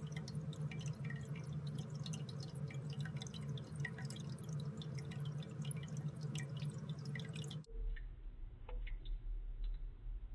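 Ceramic pet drinking fountain running: many small drips and splashes of water falling into its bowl over the steady hum of its pump. Near the end the sound changes abruptly to a duller recording with a deeper hum and fewer drips.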